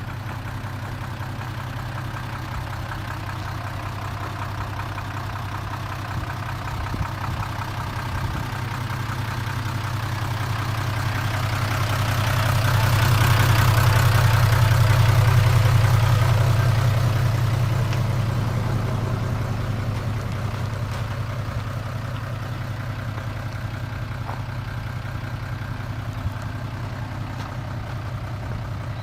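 A 1997 Mitsubishi Mignon dump truck's 6D16 inline-six diesel running at idle with a steady low hum. About a third of the way in it swells louder for several seconds, then settles back to idle.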